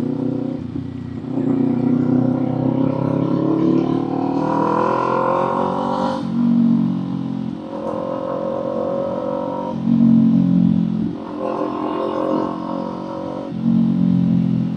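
Kawasaki Z400 parallel-twin engine and exhaust under way: the pitch climbs for a few seconds as it accelerates, drops sharply about six seconds in, then rises and falls several more times with changes of throttle and gear.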